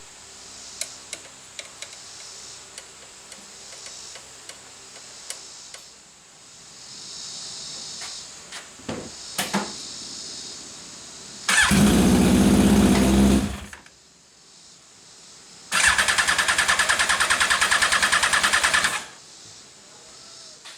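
The Legends car's engine being cranked by its starter in two bursts, one of about two seconds near the middle and one of about three seconds later on, with an even rapid pulsing. Each burst stops abruptly and the engine does not keep running, a sign of its throttle stop being set fully closed. Light clicks and taps come before them.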